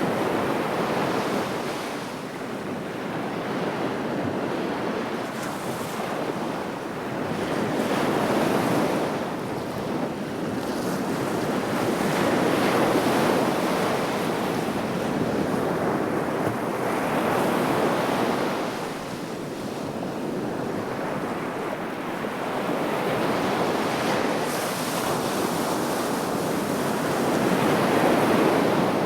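Sea waves breaking and washing on the shore in a continuous surge, swelling and falling back every few seconds.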